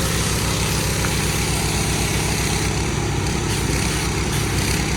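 Engine-driven pressure washer running steadily, its motor throbbing low under the broad hiss of the water spray.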